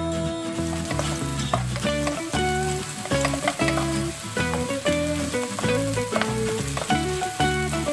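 Sliced green onion and minced garlic sizzling in hot oil in a nonstick wok, stirred with a wooden spatula, with background music playing underneath.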